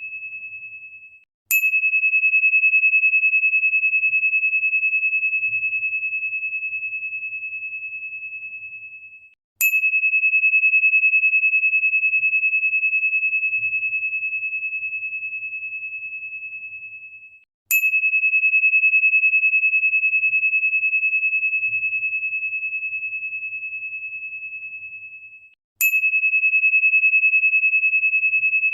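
A single pure, high crystal tone is struck four times, about every eight seconds. Each strike starts with a short bright click and then rings out, slowly fading away.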